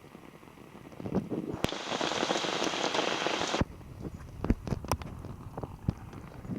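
Rain: a loud, dense hiss starts about a second in and cuts off suddenly a little past halfway. After it come scattered sharp drops tapping close by.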